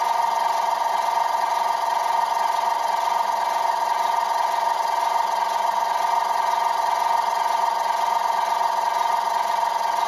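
Starter motor steadily cranking a 1950 Ford F1's flathead V8 without it firing, a continuous even whine, turning the engine over to get oil moving through it.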